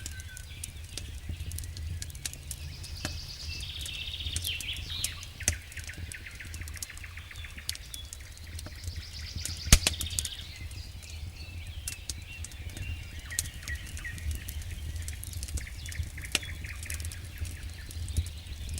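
Wood fire burning in a fireplace, crackling with frequent sharp pops over a low steady rumble; the loudest pop comes about halfway through.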